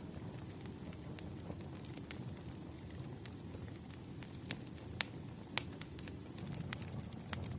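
Wood fire burning: a steady low rumble with irregular sharp crackles and pops of burning firewood, two of them louder about five seconds in.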